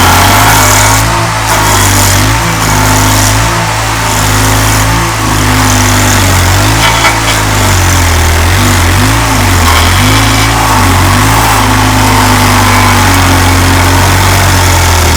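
27-horsepower stump grinder running under load while grinding a tree stump: a loud, steady engine note whose pitch repeatedly sags and recovers, over a constant hiss.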